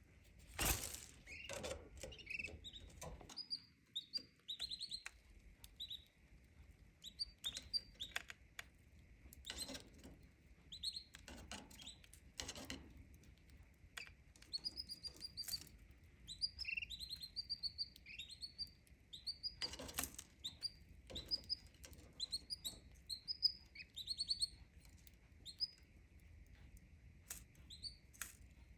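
Canary chirping in short high calls, scattered through the whole stretch, with sharp clicks and a few louder rustles and flutters in between.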